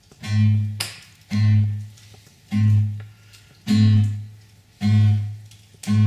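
Acoustic guitar playing a song's introduction: a low bass note struck together with a strum about once a second, six times, each ringing out and fading before the next.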